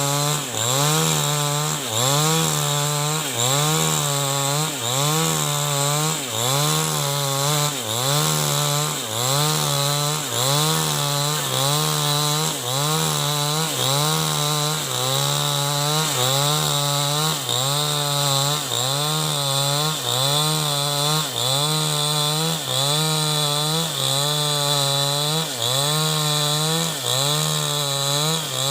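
New West 788 chainsaw under load, ripping an avocado-wood log lengthwise into rafters. The engine note dips briefly and picks up again about once a second.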